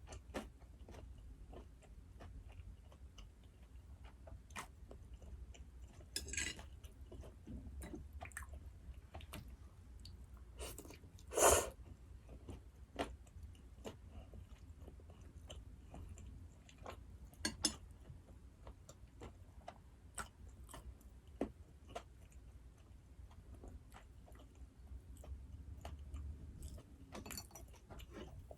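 A person chewing food close to the microphone, with many small mouth clicks and a few louder bites or crunches, the loudest about eleven seconds in.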